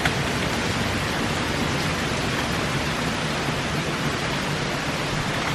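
Steady, even rush of heavy rain together with storm runoff flowing through a full drainage channel.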